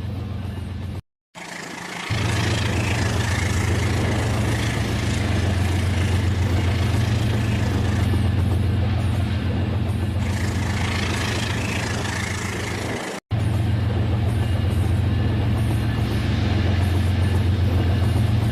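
Battery-powered Rail King toy train running on its plastic track: a steady motor hum with a rapid clatter of the wheels and gears. The sound drops out completely twice, briefly about a second in and again near the two-thirds mark.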